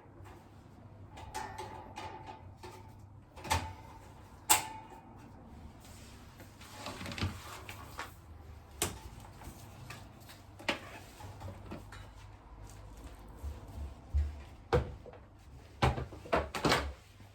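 Scattered knocks and clicks of plastic electric-fan parts being handled and set down during disassembly and cleaning, with a few louder clacks near the end.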